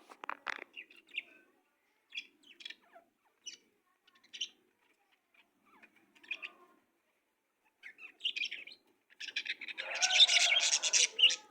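Small birds chirping in short, scattered high calls, breaking into a dense burst of rapid chirping for the last two seconds or so, the loudest part.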